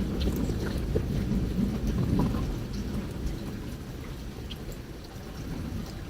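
Campfire crackling, with scattered sharp pops over a low rumbling wash of noise that fades over the second half.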